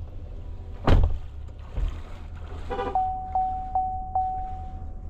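A loud knock about a second in and a smaller one shortly after, over a steady low rumble. From about three seconds in, a steady single warning tone holds, with a click roughly every 0.4 s.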